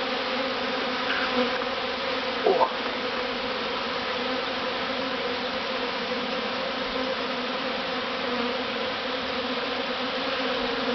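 Steady, dense buzzing of a honeybee swarm heard close up as it settles into a new hive box. A brief louder buzz sweeps past about two and a half seconds in.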